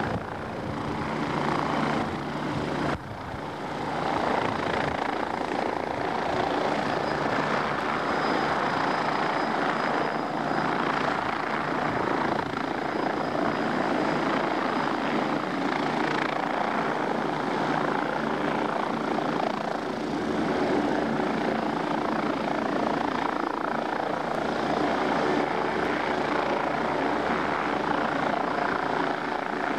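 MBB Bo 105 helicopter running steadily, its twin Allison turboshaft engines and rotors making a dense, even rush with a faint whine over it. The level dips briefly about three seconds in, then holds steady.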